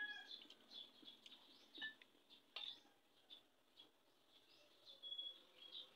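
Near silence, with faint, scattered bird chirps and a couple of faint clicks.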